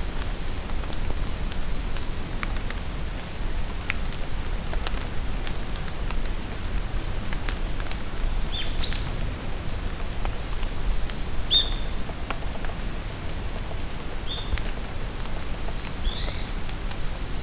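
Rain falling steadily in a forest, with scattered sharp drips, and songbirds calling in short high chirps and rising whistles, mostly in the second half.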